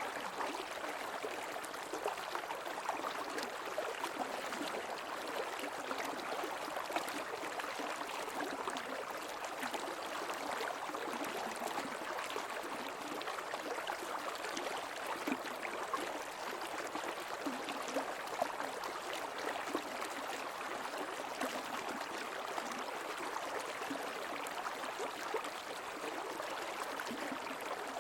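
Creek water flowing steadily, a constant rush of running water with small irregular splashes.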